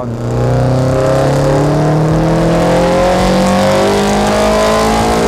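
2015 Subaru WRX STI's built turbocharged 2.5-litre flat-four with a G25 turbo, accelerating hard under load, its pitch climbing evenly for about five seconds and falling away near the end.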